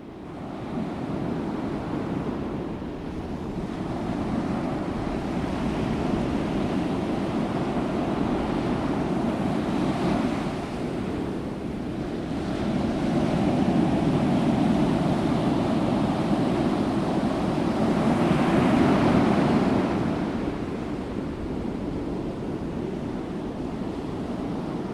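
Ocean waves breaking, a steady rushing wash that swells louder in the second half as bigger waves come in.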